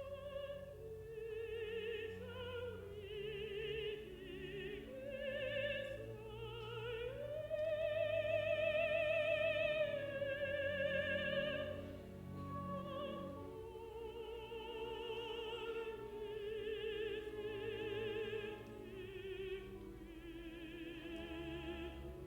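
A contralto singing with strong vibrato over an orchestra. Her phrases climb to a long held high note in the middle, then settle lower.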